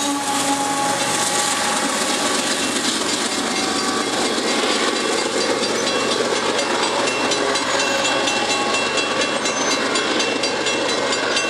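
Long double-stack intermodal freight train rolling past: a steady rumble and hiss of steel wheels on rail, with a wheel squeal fading out within the first second.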